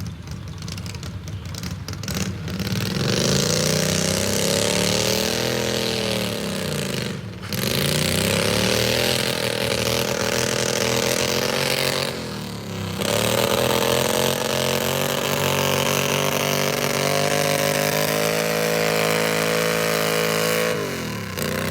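Modified pulling tractor's engine running hard at high revs during a pull. Its pitch climbs over the first few seconds, dips sharply twice and recovers, then falls away near the end as the throttle comes off.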